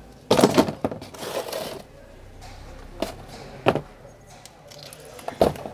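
A large kitchen knife cutting through aloe vera leaves. A noisy stretch of handling and slicing lasts about a second and a half near the start, then the blade strikes sharply three times.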